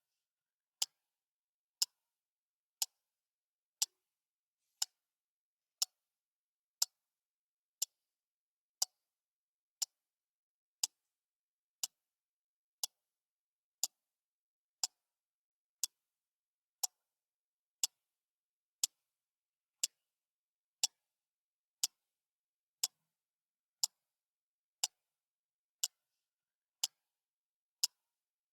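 Clock ticking steadily, one short, bright tick each second with silence between.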